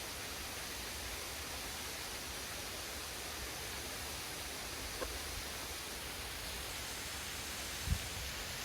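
Waterfall in heavy flow: a steady, even rush of falling water. A brief low thump comes near the end.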